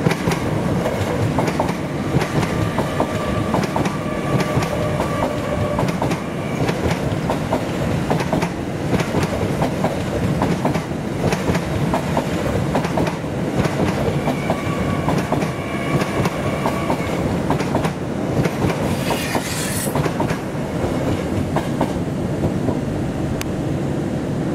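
A train running through a station, its wheels clattering steadily over the rails for the whole stretch, with a faint high wheel squeal that comes and goes.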